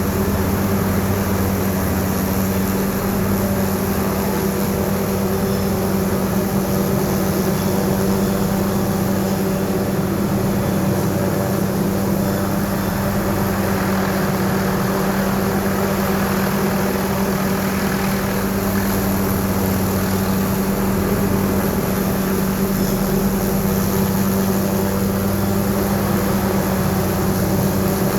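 Helicopter running: a steady, unchanging mechanical drone with a constant hum.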